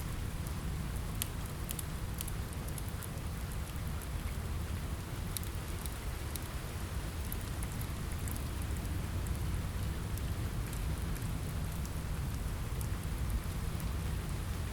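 Steady rain on a window, with a low rumble underneath and scattered sharp crackles from a fireplace fire, a little denser in the first few seconds.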